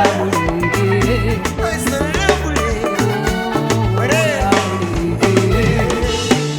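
Instrumental passage of African band music: a stepping bass line, drums keeping a steady beat and a lead melody line with bending notes.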